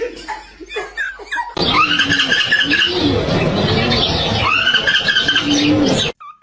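A parrot's short chirps, then loud, harsh screeching with two long arching calls, stopping abruptly near the end.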